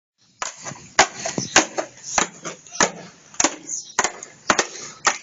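A run of sharp knocks in an even rhythm, about nine in all at a little under two a second, starting suddenly after a moment of dead silence.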